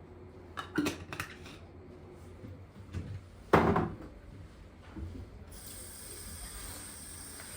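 Household handling sounds: a few light clicks and clatters, then one loud knock with a short ring about three and a half seconds in, typical of a drawer or cupboard being opened and shut. A steady hiss starts suddenly near the end.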